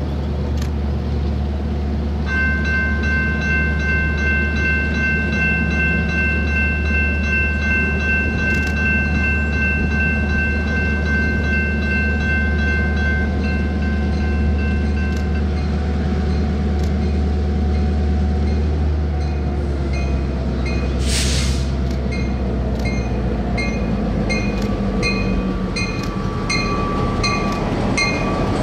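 Norfolk Southern diesel freight locomotive approaching and passing, its engine a steady low drone. Its horn sounds one long steady chord blast of about thirteen seconds. Evenly spaced metallic dings come about twice a second and grow plain in the second half as the train rolls by.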